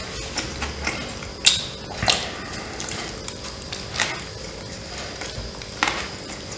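Close-up eating sounds of a man biting into and chewing a soft bread-roll sandwich: irregular wet mouth clicks and smacks, with four sharper smacks about one and a half, two, four and six seconds in.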